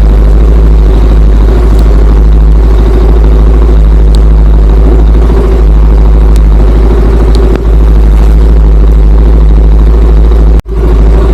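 Motorcycle engine running steadily at low revs, with a brief split-second drop-out near the end.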